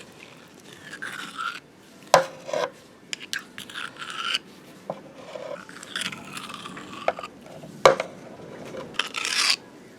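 Metal parts of a Ford Flex power transfer unit scraping and clinking as the opened case is handled and pulled apart, with two sharp knocks, one about two seconds in and one near eight seconds.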